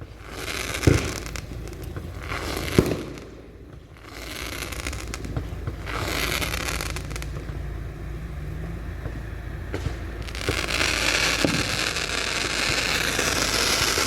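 Fireworks going off: two sharp bangs in the first three seconds, each trailed by crackling, then dense, continuous crackling from about ten seconds in, with another bang among it.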